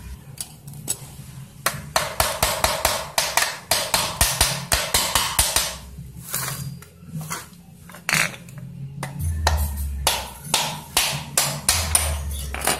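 Rapid runs of sharp knocks, two bursts of several seconds each, over a low steady hum.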